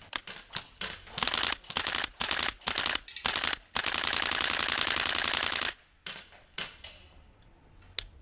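GBLS DAS GDR-15 airsoft rifle emptying its magazine: several short bursts of rapid shots, then about two seconds of unbroken full-auto fire, trailing off into a few single shots.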